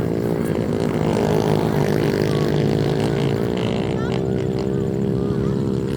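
Pit bike engines running in a race, a steady drone whose pitch wavers a little as the riders work the throttles.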